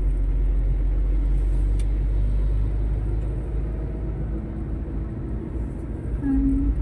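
Steady low rumble of a moving road vehicle, easing somewhat partway through.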